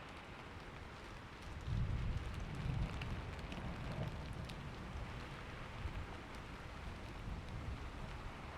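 Steady rain falling, with a low rumble of thunder swelling in about a second and a half in and rolling on through the rest.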